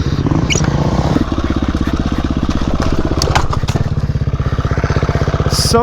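Dirt bike engine running at low revs, its firing pulses coming in an even, rapid beat, with a few short knocks over it.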